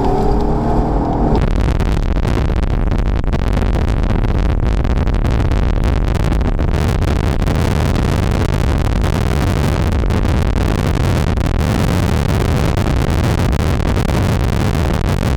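Loud, steady rushing of storm wind and a vehicle driving at speed, with a heavy low rumble. It begins abruptly about a second in, replacing a brief muffled hum.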